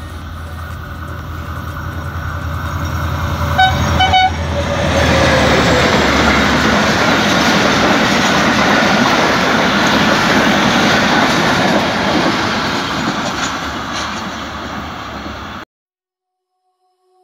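A diesel-hauled passenger train runs through a station with a low engine rumble, sounding two short horn blasts about four seconds in. Then the coaches pass close by with a loud steady rush of wheel and rail noise that slowly fades. The sound cuts off abruptly near the end.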